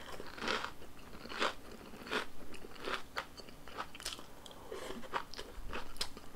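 Close-miked chewing and biting of tteokbokki rice cakes in spicy sauce: an irregular string of mouth clicks and smacks, several a second.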